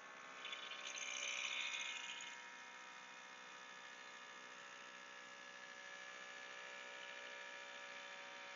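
Small electric air compressor of a Legend air suspension running steadily, pumping up the rear air shocks to raise the motorcycle. Its whine swells briefly about a second in.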